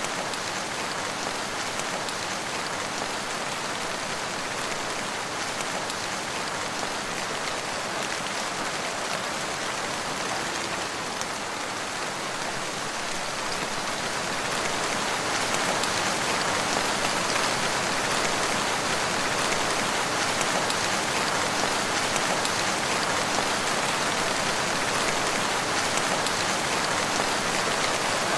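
Steady rain falling on surfaces, an even patter of drops with no thunder. It grows a little louder about halfway through.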